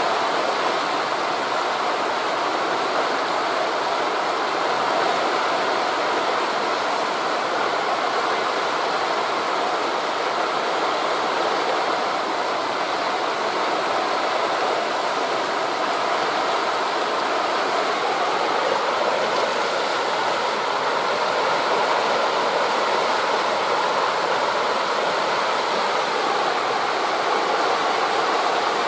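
Steady rushing ambience of sea surf on a beach mixed with wind through forest leaves, even throughout with no single wave or gust standing out.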